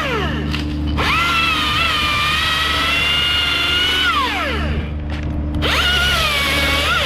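Husqvarna T540iXP battery top-handle chainsaw's electric motor whining at full speed in two runs, each spinning up sharply, holding a steady high pitch, then winding down. A steady low engine hum runs underneath.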